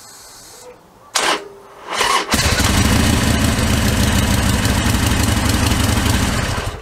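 Harley-Davidson Sportster XL1200R's 1200cc V-twin being cold-started: the starter turns over in short, stuttering bursts for about two seconds, then the engine catches and runs steadily for about four seconds, fading near the end. The stuttering start is how it behaves on its own battery; it doesn't do it with jump leads on.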